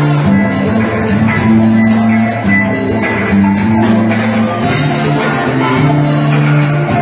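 A live band jamming an improvised instrumental: a drum kit keeping a steady beat with cymbals, over guitar and a bass line moving between held notes.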